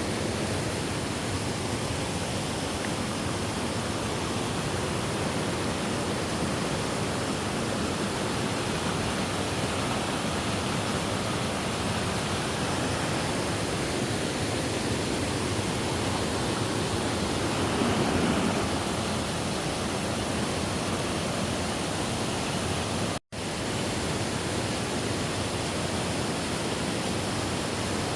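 Waterfall: a steady rush of falling water, swelling briefly past the middle and cutting out for an instant about three quarters of the way through.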